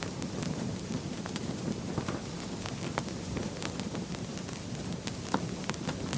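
Wood fire burning in a fireplace: a steady low rush of flames with frequent sharp crackles and pops, a few of them louder.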